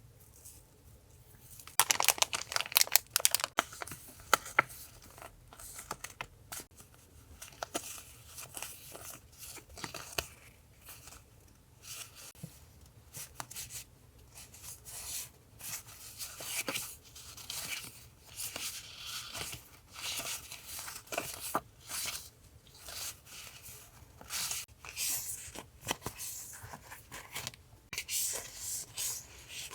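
Paper being torn and crinkled by hand. A string of sharp crackling rips starts about two seconds in, followed by softer, irregular rustling and tearing as the paper is handled.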